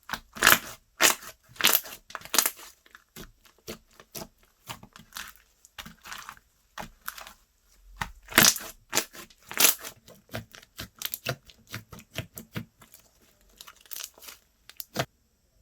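Slime being kneaded and stretched by hand, giving irregular crackling clicks and pops, loudest near the start and about eight to ten seconds in, stopping just before the end.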